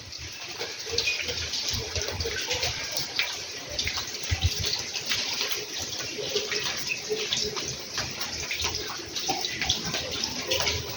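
Water running and splashing steadily, a dense patter of small irregular splashes.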